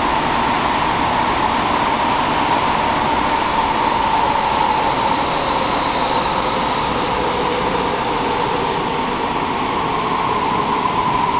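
Kyoto subway 50 series train running through the tunnel, heard from inside the car: steady wheel and rail rumble with a whine that drifts slightly in pitch.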